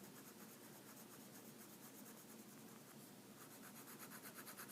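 Faint scratching of a writing tool shading in a region of a graph, turning into quick repeated back-and-forth strokes about three and a half seconds in.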